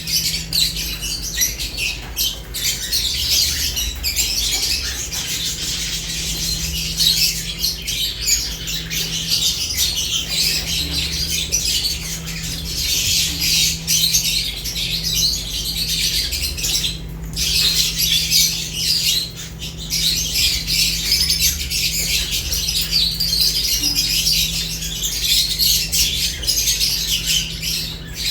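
A group of lovebirds chattering and squawking nonstop: a dense mix of shrill chirps and calls, with a low steady hum underneath.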